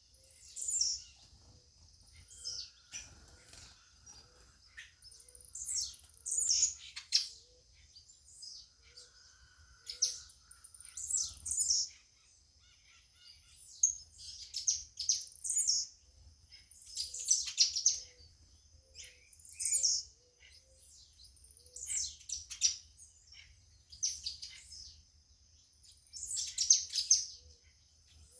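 Songbirds chirping outdoors: short, high twittering phrases every second or two, over a faint steady high tone.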